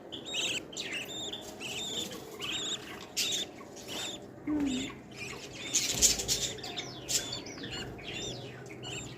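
Baby birds chirping over and over, a few short arching calls each second, with a brief louder rustle about six seconds in.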